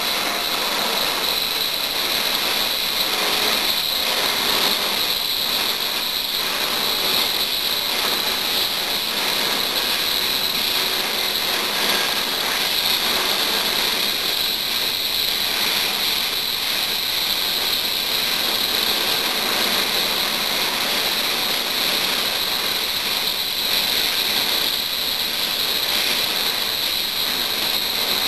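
Eurocopter AS365 Dauphin helicopter running steadily, its twin turboshaft engines and rotors giving a continuous rushing noise with a high-pitched whine.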